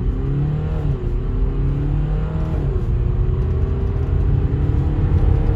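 BMW 525d's two-litre four-cylinder turbodiesel accelerating hard from a standstill through the gears. The engine note climbs, drops at an upshift about a second in and again just under three seconds in, then climbs steadily over a low rumble.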